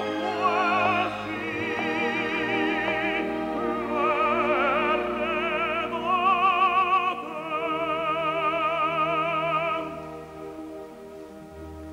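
Operatic tenor singing long held notes with a wide vibrato over an orchestra, without clear words; the voice stops about ten seconds in and the orchestra carries on more softly.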